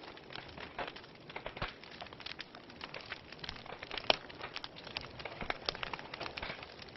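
Wood fire crackling in a fireplace: irregular pops and snaps over a soft hiss, with one louder pop about four seconds in.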